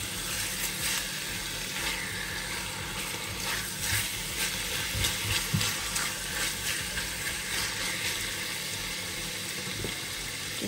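Raw chicken thigh pieces sizzling in hot olive oil in an enamelled pan. A silicone spatula stirs and scrapes them every second or so.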